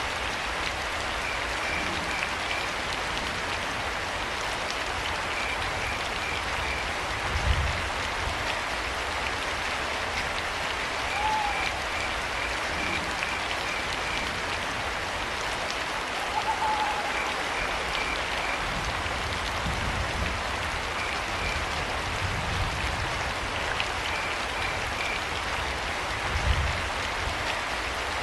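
Steady rain pattering through a forest at night, with crickets chirping in short pulsed trills every few seconds. An owl calls briefly twice, and two low thuds stand out, one early and one near the end.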